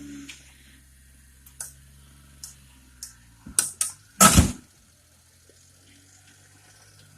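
A motor runs steadily at a low hum, while a series of sharp knocks and rattles builds to one loud bang a little over four seconds in.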